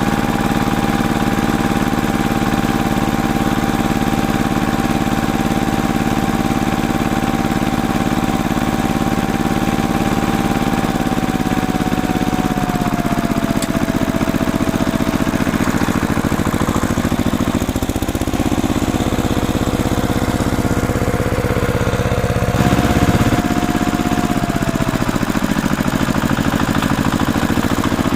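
A small motor-driven machine running steadily, with a thin whine that drops in pitch twice, once around the middle and once near the end.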